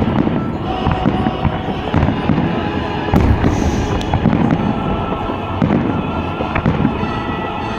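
Fireworks display: a dense, steady run of booming shell bursts and crackling, with many bursts close together.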